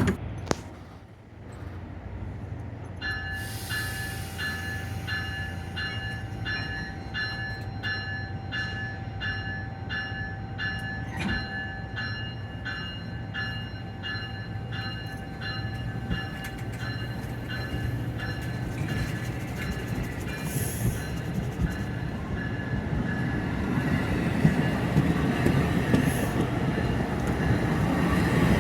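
NJ Transit Raritan Valley Line commuter train approaching, with a bell ringing about twice a second. A steady high tone sounds under the bell for the first half, and the train's rumble grows louder toward the end.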